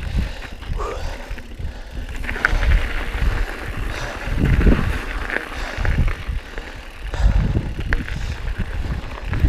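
Mountain bike being ridden over rough trail: tyre roll, jolts and rattle of the bike, coming in uneven surges of low rumble.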